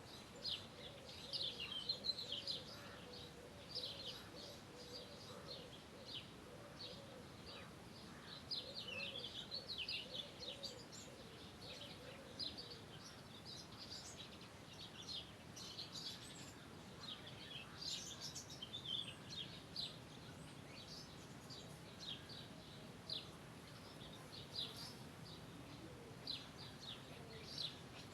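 Several songbirds chirping and trilling in quick, overlapping short calls over a steady faint hiss of outdoor ambience. A faint low wavering call runs beneath them for about the first twelve seconds.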